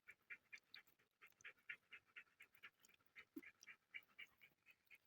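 A dog panting quickly and faintly, about three to four breaths a second.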